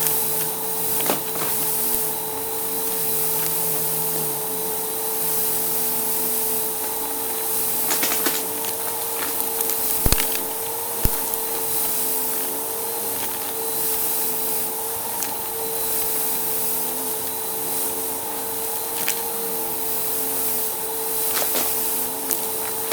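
Vacuum cleaner running with its brushroll on: a steady motor whine over airflow hiss, broken by scattered sharp clicks and crackles of debris crunching as it is picked up.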